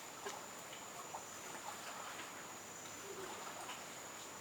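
Steady high-pitched insect drone, with faint scattered chirps and clicks over it.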